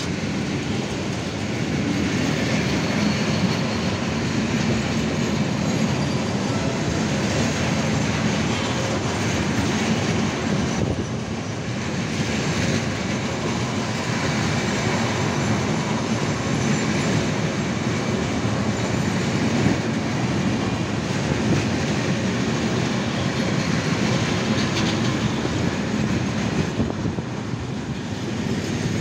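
Freight train of open-top Eaos gondola wagons rolling past close by: a steady, unbroken noise of steel wheels running on the rails.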